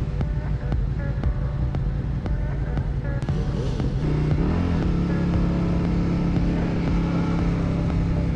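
Motorcycle engine running while riding, heard from the rider's camera, with road and wind noise; about four seconds in the engine pitch rises as it accelerates, then holds steady.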